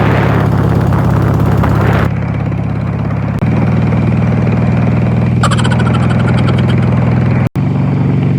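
Harley-Davidson motorcycle's V-twin engine idling steadily and loudly. There is a short, high-pitched chirp just past halfway, and the sound cuts out for a moment near the end.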